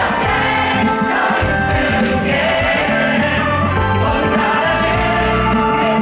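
Loud live concert music: a band playing with many voices singing together.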